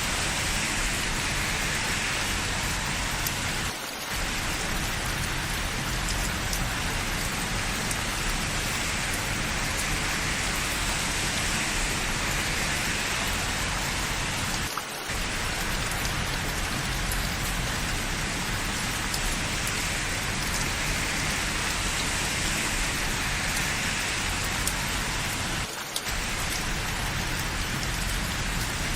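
Steady rain falling, an even hiss of many drops with faint fine ticks. It drops away briefly three times, about every eleven seconds.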